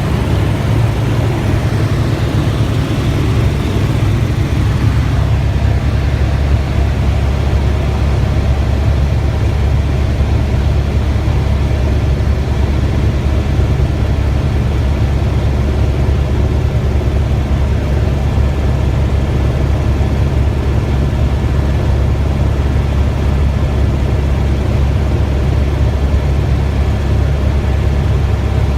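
Helicopter heard from inside the cabin: a loud, steady low drone of rotor and engine.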